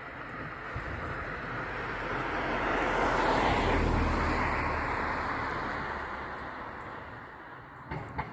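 A motor vehicle passing by: its engine and tyre noise swell to a peak about four seconds in and then fade away. Two short clicks come near the end.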